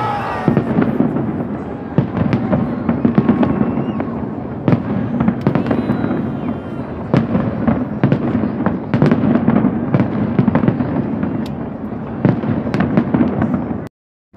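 Aerial fireworks display: a dense run of irregular bangs and crackles over a continuous rumble of bursts. The sound cuts out abruptly for about half a second near the end.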